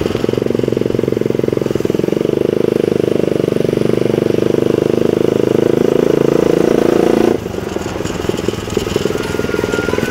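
Suzuki Satria FU supermoto's 150 cc single-cylinder engine, heard from on board while riding: it pulls steadily under throttle for about seven seconds, then drops suddenly to a quieter, lighter running note.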